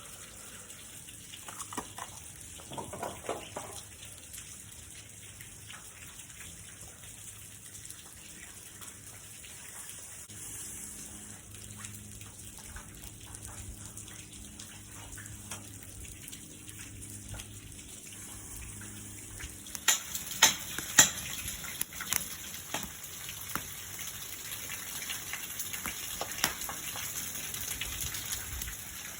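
Steady hiss of rain throughout. About twenty seconds in, sharp cracks and pops begin, with two loud cracks close together at the start, like a wood campfire crackling.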